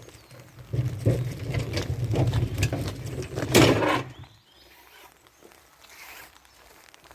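Rain pattering on an umbrella held close to the microphone, with a low rumble of handling noise, for about three seconds; it cuts off suddenly about four seconds in.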